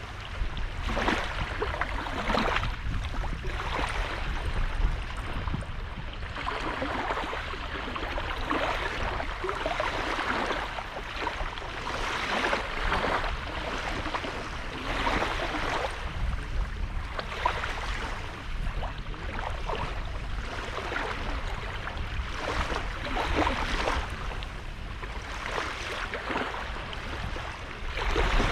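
Small sea waves washing onto a sandy beach, each wash swelling and fading every second or two, over a steady low rumble.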